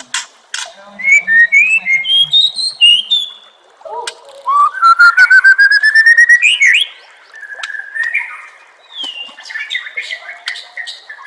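White-rumped shama (murai batu) song: short phrases of clear notes stepping up in pitch, then a loud fast run of repeated notes climbing steadily about halfway through, followed by softer, quieter notes.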